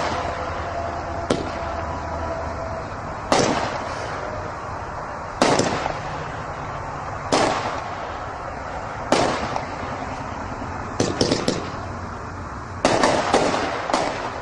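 Wicked Willow 200-gram consumer fireworks repeater cake firing shot after shot, a sharp report roughly every two seconds. Near the end come two quick clusters of several pops each.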